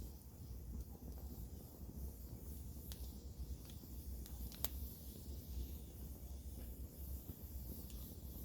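Campfire wood burning with a soft hiss, crackling with scattered pops; the sharpest pop comes just past the middle. A steady low rumble runs underneath.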